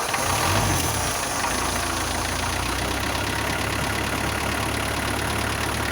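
Isuzu NPR's diesel engine catching right at the start, flaring up briefly in the first second, then settling into a steady idle. It is a first start after eleven years of sitting, on stale fuel.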